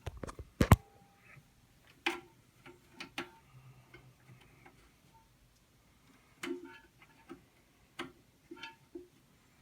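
Irregular sharp clicks and light knocks of toilet flush-kit parts being handled and fitted by hand, two loud clicks right at the start and scattered ones after.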